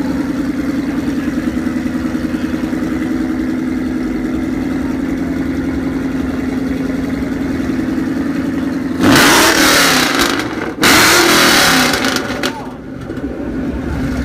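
Supercharged 5.8-litre V8 of a 2013 Shelby GT500, with long-tube headers and no catalytic converters, idling with a loud, pulsing note, then revved hard twice in quick succession about nine seconds in before settling back to idle.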